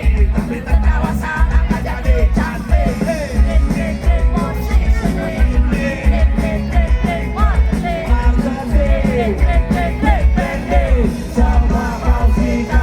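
Loud rock music with a singing voice over heavy bass and a steady beat.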